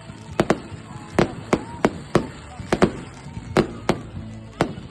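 Fireworks going off: an irregular run of sharp bangs, about a dozen in five seconds.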